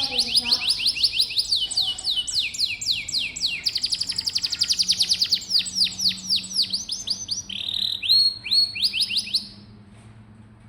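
Domestic canary singing: a long run of rapid trilled phrases, each built from repeated down-sweeping whistled notes, switching between faster and slower trills every second or two. The song breaks off about a second before the end.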